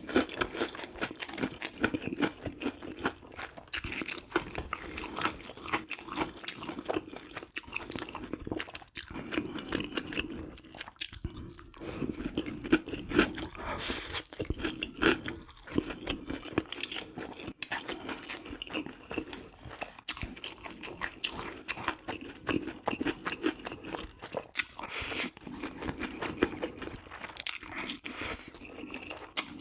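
Close-miked eating: a steady run of crunchy bites and chewing.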